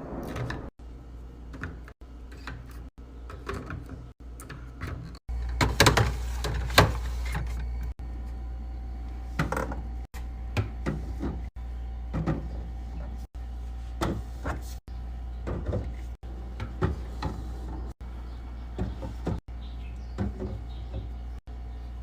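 Food containers and packages being handled and set into a fridge: a run of clicks, taps and knocks, busiest about a quarter of the way in, over a steady low hum.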